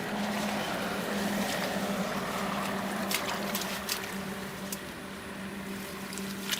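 Fast-flowing rain water rushing steadily, with a low steady hum under it and a few sharp clicks.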